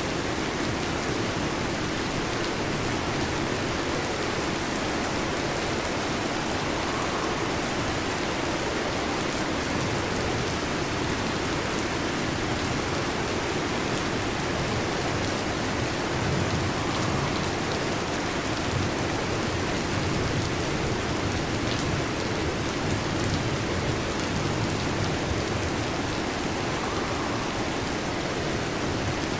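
Heavy rain falling steadily on a metal roof, an even hiss of many drops.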